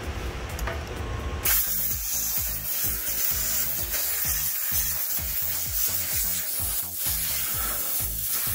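Compressed-air blow gun hissing steadily, switched on suddenly about a second and a half in, blowing sprayed contact cleaner off the hydraulic parts.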